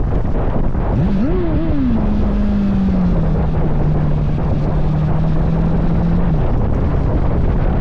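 Heavy wind rushing over the microphone of a motorcycle at highway speed. A pitched hum rises sharply about a second in, then holds steady with one step down and stops about six seconds in.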